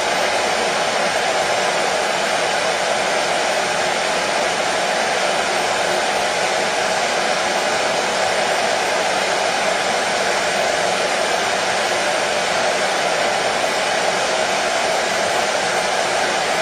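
Hair dryer blowing steadily, an even, unchanging whoosh of air and motor, used as white noise to soothe a baby to sleep.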